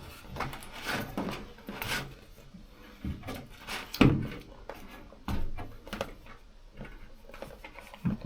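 Sheets of sound-deadening material being handled and worked: scattered rustles and knocks, with one louder thump about four seconds in.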